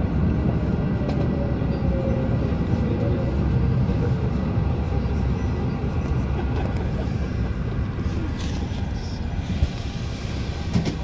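MI09 electric multiple unit on RER line A running on the rails, heard from inside the carriage: a steady low rumble, with a faint motor tone falling in pitch over the first few seconds.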